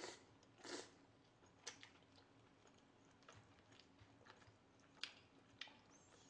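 Faint close-up chewing of soft boiled duck meat: wet mouth clicks and smacks, with a few sharper clicks about a second and a half in and again around five seconds in.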